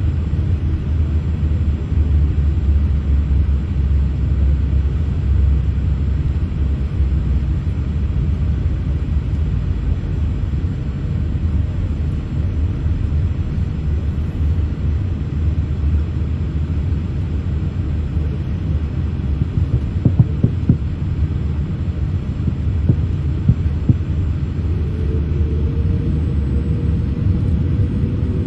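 Boeing 787-8's Rolls-Royce Trent 1000 engines at takeoff power, heard inside the cabin as a loud, steady low rumble during the takeoff roll, with a few short thumps about two-thirds of the way through. Near the end a faint whine rises in pitch.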